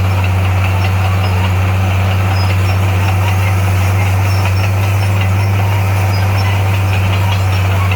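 Heavy diesel engine of earthmoving equipment running at a steady speed: a deep, even drone that does not change.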